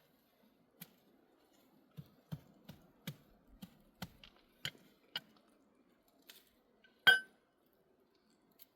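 A series of light knocks and clinks of hard objects being handled, then one loud ringing clink about seven seconds in.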